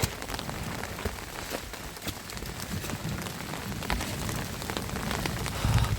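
Rain falling steadily, an even hiss dotted with many small drop ticks, with a low thump shortly before the end.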